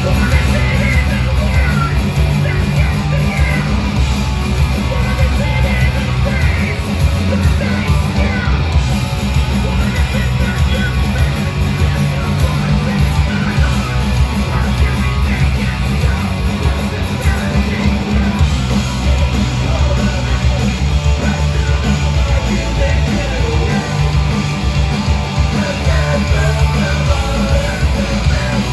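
Live punk rock band playing loud: distorted electric guitars, bass and fast drums, with shouted vocals over them.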